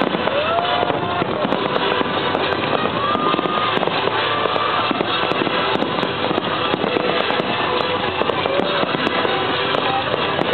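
Fireworks display: a dense barrage of aerial shells bursting, with continuous crackling and bangs. A few rising whistles cut through it.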